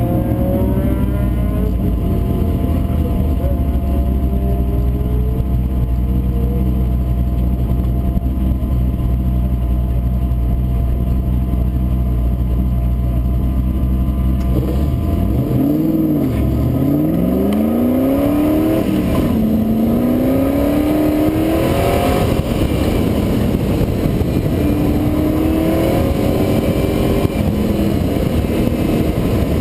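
Rover V8 engine in an MGB race car idling steadily, heard from the open cockpit. About halfway through it revs up and the car launches, the engine pitch rising and falling repeatedly as it accelerates and shifts.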